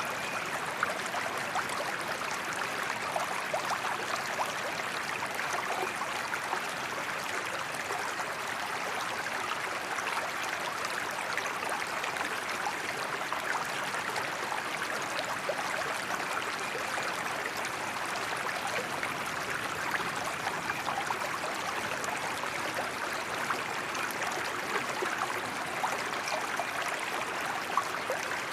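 Waterfall water rushing steadily and evenly, with small splashes flicking out here and there.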